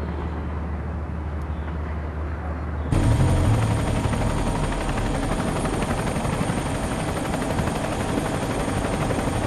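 Aircraft engine drone, a steady low hum that turns abruptly louder and fuller about three seconds in, like the noise heard inside the aircraft's cabin.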